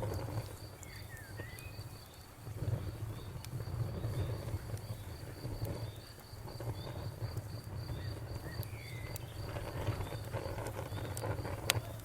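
Campfire burning with a low rumble that swells and ebbs, scattered wood crackles and one sharp pop near the end. Crickets chirp steadily and evenly behind it.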